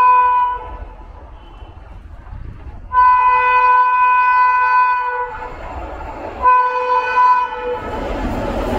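Train locomotive horn blowing: the end of one blast in the first half second, a long blast of about two seconds, then a shorter one of about a second. Near the end a rising rush of the train approaching at speed.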